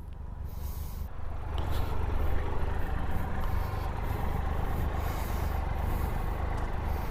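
Motorcycle riding on the highway: engine running under heavy wind rush on the microphone, growing louder over the first couple of seconds and then holding steady.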